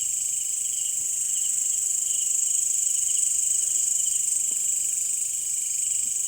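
Night insect chorus, crickets calling: a steady high-pitched buzz with a lower, rapidly pulsing trill beneath it.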